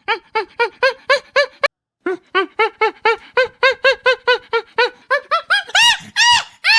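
A rapid series of short, squeaky animal calls, about five or six a second, broken by a brief silent gap about two seconds in, with a few louder, higher-pitched calls near the end.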